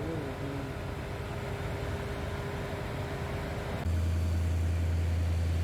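A train's engine running steadily with a thin, steady whine over a low rumble. About four seconds in it cuts abruptly to a louder, steady low engine hum.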